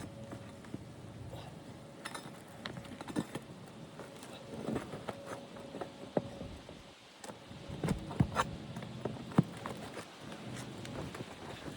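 Scattered light clicks, taps and scrapes of hand work on an asphalt shingle roof, with a few sharper knocks about eight and nine seconds in.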